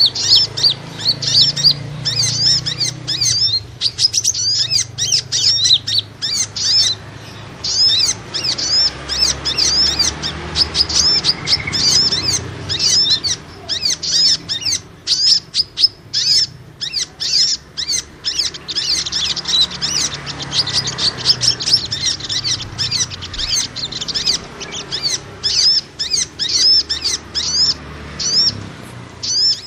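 Small songbirds' fighting calls, the kind used as a bird-trapping lure: rapid, high, scratchy chirps, several a second, with a few brief pauses.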